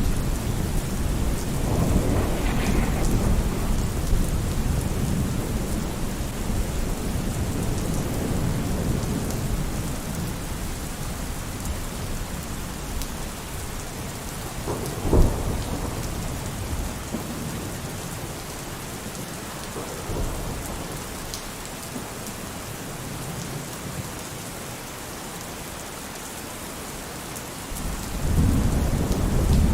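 Steady rain falling, with rolling thunder rumbling low and fading away, a sharp thunder crack about halfway through, and another rumble building near the end.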